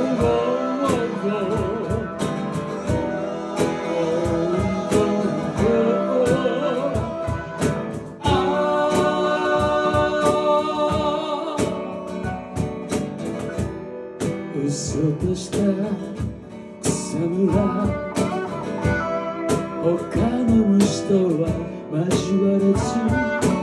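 Rock band playing the intro of a song, with guitar and a regular drum beat under a wavering melody line.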